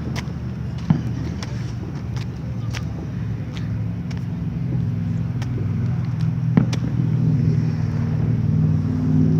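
A car engine running with a steady low hum that grows louder through the second half, with scattered sharp pops of distant fireworks bursting.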